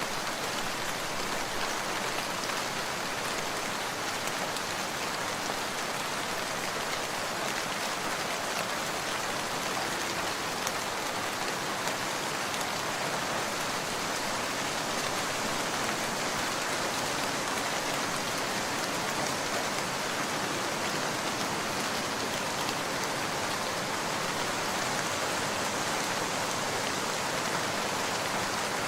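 Steady rain falling, an even hiss of many small drops on a surface with no change in strength.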